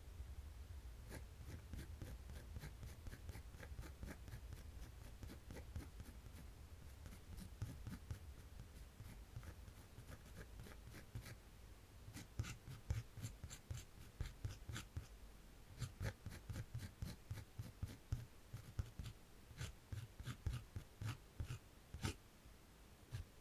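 Faint sound of drawing on paper: soft scratching strokes, then from about halfway a denser run of quick, sharp ticks and scratches.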